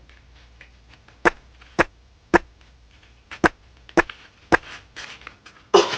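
A series of about eight sharp knocks or taps, roughly one every half second, starting about a second in.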